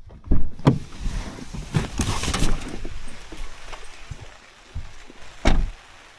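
Heavy rain hissing, with several sharp knocks and thumps; the loudest comes about five and a half seconds in.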